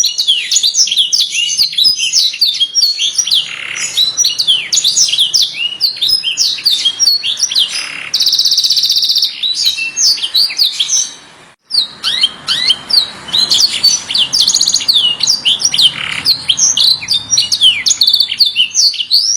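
Canary singing a fast, continuous song of quick rising and falling notes. About eight seconds in it holds a rapid rolled trill for about a second. The song breaks off briefly a little before the twelve-second mark and then picks up again.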